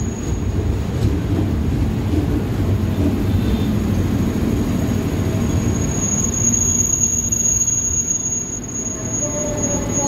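KRL Commuterline electric train pulling into the platform: a steady rumble of wheels on rails as it slows. Near the end a whine falls in pitch as it brakes to a stop, with a thin high steady whistle above at times.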